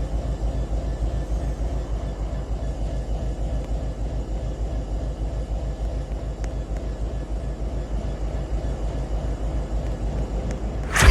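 Metra commuter train running past with a steady, heavy low rumble. A sudden loud pitched blast starts at the very end.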